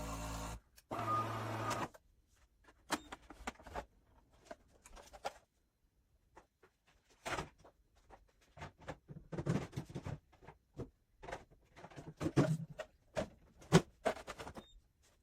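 A De'Longhi automatic espresso machine's motor running steadily, cutting off about two seconds in, followed by irregular clicks and knocks of parts being handled.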